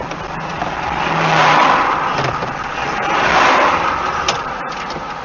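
A car's engine and tyre noise, a loud rushing sound that swells twice.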